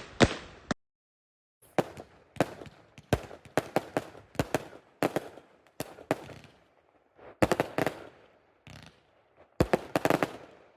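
Fireworks going off: after a short silence about a second in, a run of sharp bangs at irregular intervals with crackling between them, bunching into quick volleys twice near the end.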